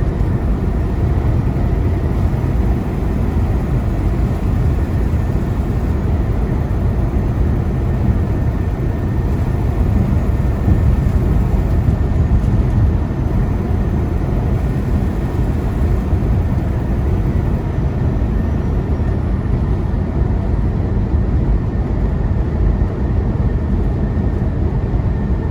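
Semi truck cab at highway speed: a steady low drone of the diesel engine and tyre and road noise.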